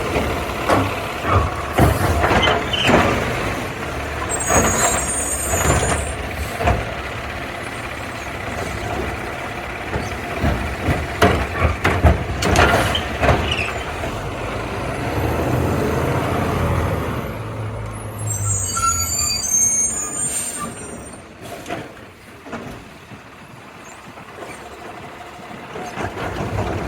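Garbage truck working: the diesel engine runs under a series of clanks and knocks, with two sharp air-brake hisses about 5 and 19 seconds in.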